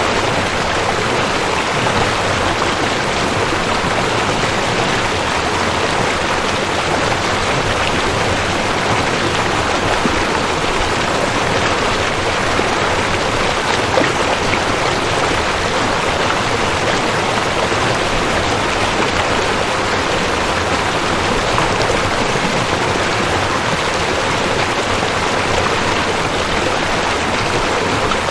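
Rushing creek: water running steadily over rocks, an even rushing noise with no pauses.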